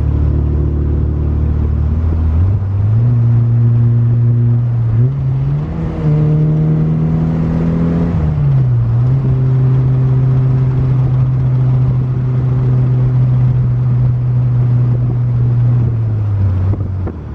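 Built 16-valve 2.1-litre four-cylinder engine with headers and a full exhaust, in a 1988 VW Cabriolet on the move. The engine revs climb in steps over the first several seconds. The revs drop sharply about halfway through as the gear changes up, then hold steady, and ease down near the end.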